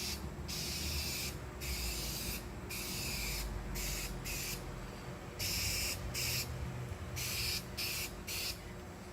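Aerosol spray-paint can hissing in a series of short bursts, about nine passes of under a second each, stopping shortly before the end. It is laying down a light first colour coat, not a coverage coat, to blend in a fiberglass repair.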